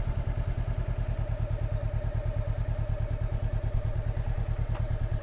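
Motorcycle engine running at a steady speed while riding, with an even, rapid pulsing and a faint steady whine over it.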